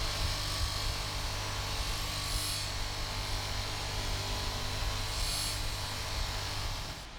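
Small electric power tool running steadily with a low hum, with a brief higher hiss twice, about three seconds apart. It cuts off suddenly near the end.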